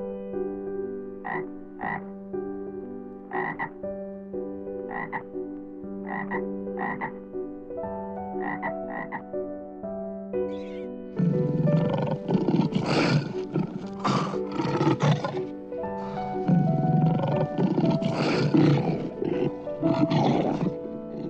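Animal calls over soft background music: short single calls about once a second at first, then, from about halfway, two long bouts of dense, loud, rasping calls.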